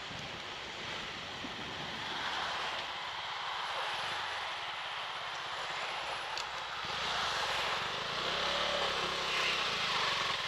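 Motorcycle riding noise: a steady rush of wind over the microphone with engine and road noise underneath, a little louder from about seven seconds in.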